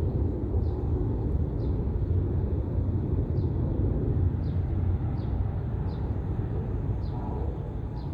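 Boeing 737-800's CFM56-7B turbofan engines giving a steady deep rumble as the jet climbs out after takeoff. A faint, short, high chirp that falls in pitch repeats about once a second over it.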